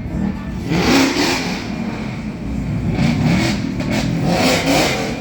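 Car engines revving, with surges of noise about a second in and again later.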